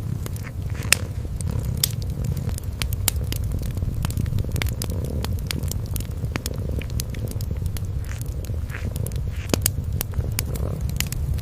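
Kitten purring in a steady low, continuous rumble, with a wood fire crackling over it in scattered sharp pops.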